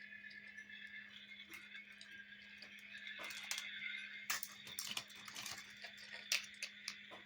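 Plastic toy construction vehicles clicking and knocking together as they are handled, over a steady high-pitched tone and a low hum.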